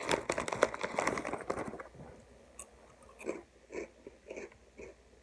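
Veggie straws crunched between the teeth: crisp crackling for about two seconds, then steadier chewing about twice a second.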